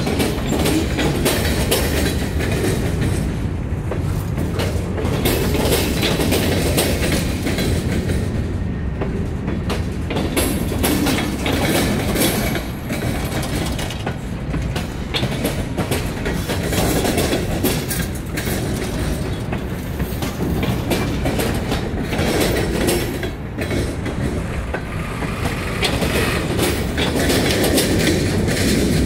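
Mixed freight cars (tank car, covered hoppers, boxcars, an autorack) rolling past close by. Steel wheels click and knock over the rail joints above a steady rumble, and the sound swells and eases as each truck passes.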